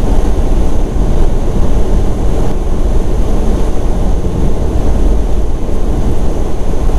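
Semi-truck cab at highway speed: a steady, loud engine and road rumble, heaviest in the low end.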